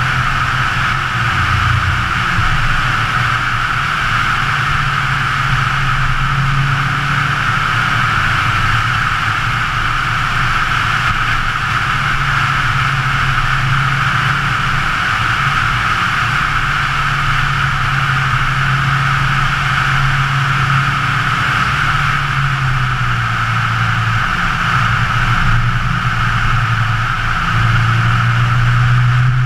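2013 Scion FR-S's flat-four engine running as the car drives at road speed, its pitch holding steady for stretches and stepping up and down a few times, with a steady hiss over it. It gets a little louder near the end.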